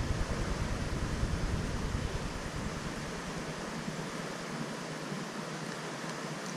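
Steady rushing noise of wind and river water, with low wind rumble on the microphone easing off about three seconds in.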